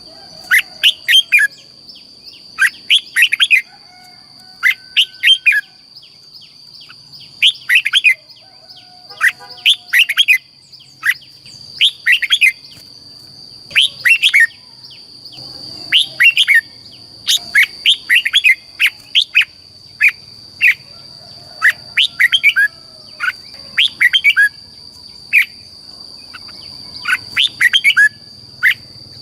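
Red-whiskered bulbul singing: short, loud phrases of quick whistled notes, repeated every second or two. A steady high-pitched tone runs underneath.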